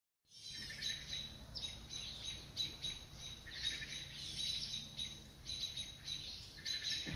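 Wild birds chirping in the woods, short chirps repeated in clusters several times a second, over a faint steady high tone.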